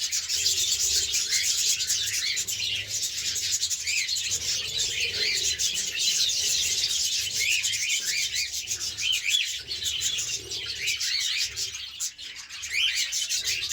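A flock of caged budgerigars and cockatiels chattering: many overlapping short chirps and warbles without a pause, dipping briefly near the end.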